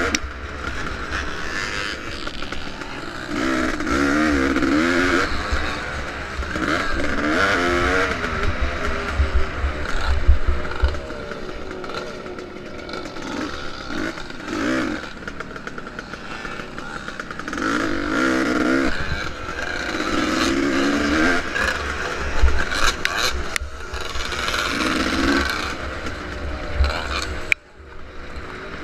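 Vintage motocross motorcycle engine revving up and falling back again and again as it is raced around a dirt track, with a steady low rumble underneath.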